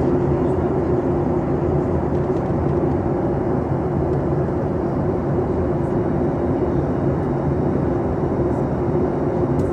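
Boeing 737 MAX aircraft noise from the passenger's side: a steady, unbroken drone of airflow and its CFM LEAP-1B engines, with a low, even hum running under it.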